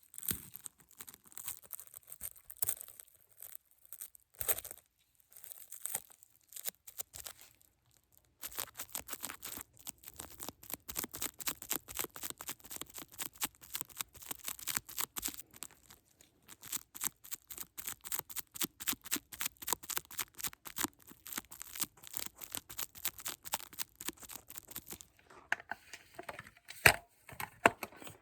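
Close-miked crinkling and crackling of a handled material, sparse at first, then dense and rapid from about eight seconds in, ending with a softer rustle and one sharp click near the end.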